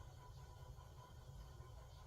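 Near silence: faint low rumble and hiss of room tone.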